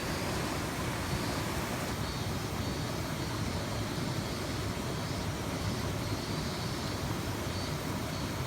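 Fast mountain stream rushing over a small rapid, a steady, even flow noise.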